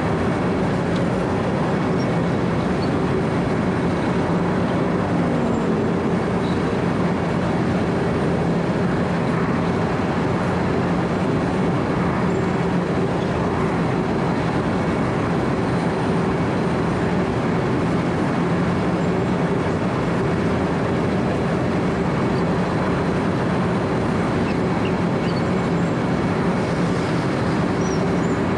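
Wirtgen W 120 CFi cold milling machine running continuously while it cuts asphalt: its diesel engine holds a steady hum under the dense grinding of the milling drum.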